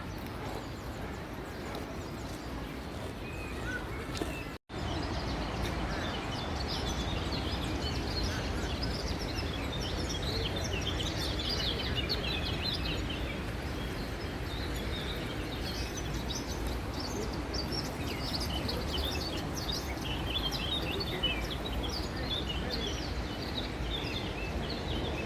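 Many small birds chirping in quick short calls over a steady outdoor background noise. The sound drops out for a moment about four and a half seconds in, then resumes with denser chirping.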